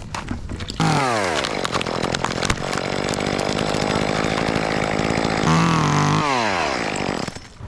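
Gas chainsaw cutting a fir limb: it revs and drops in pitch as it bites into the wood, runs steadily under load for about four seconds, then revs up again and winds down as the throttle is released.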